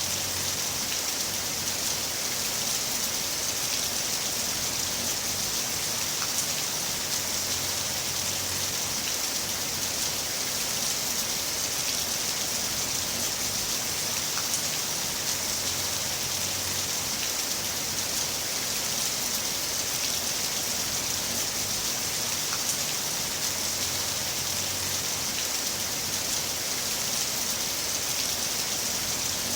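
Heavy rain falling steadily, a dense, even hiss of drops with no breaks.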